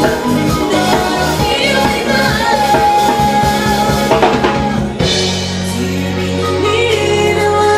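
A live band playing with a singer and a drum kit. About five seconds in, the drums stop abruptly, leaving long held bass notes under the voice.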